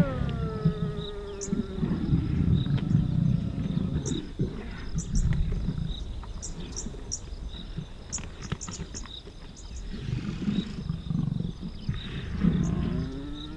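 Lions growling and snarling over a wildebeest kill: low rumbling growls throughout, a drawn-out snarl falling in pitch at the start, and another snarl near the end.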